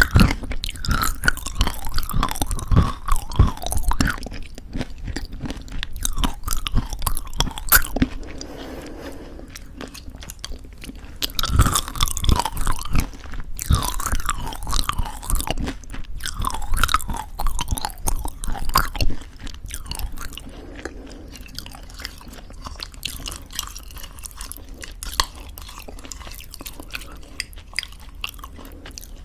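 Close-miked mouth sounds of eating crunchy homemade granola in thick yogurt: crisp crunching and chewing in two busy bouts, with softer, quieter chewing in between and through the last third.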